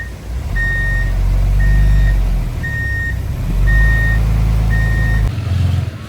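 A heavy machine's reversing alarm beeping about once a second over the low rumble of a running engine; both cut off abruptly a little past five seconds in.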